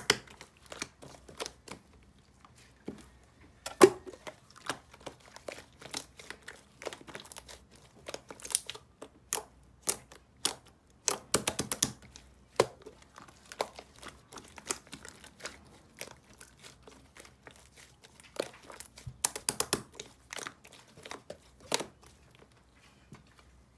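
Crinkly material being handled and crumpled in irregular crackles and light taps, with a sharper knock about four seconds in.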